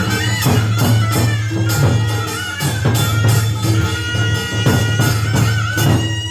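Lively festive music with drums struck in a steady, even beat over a bass line and a wavering melody.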